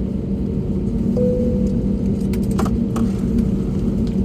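Cabin noise inside an Airbus A320 taxiing after landing: a steady low rumble with a constant hum from the engines and air conditioning, and a few faint clicks about two to three seconds in.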